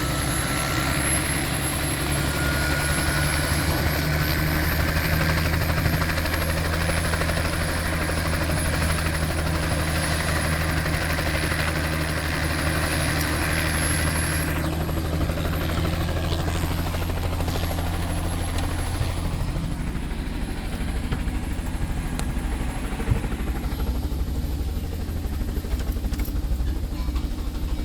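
Helicopter running, with a steady low rotor beat and a turbine whine that rises over the first few seconds. About halfway through, the higher part of the sound drops away, and the low beat weakens later on.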